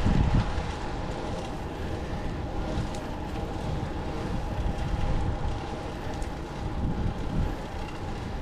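Steady road rumble and wind on the microphone while riding a fixed-gear bicycle, with a faint steady hum underneath.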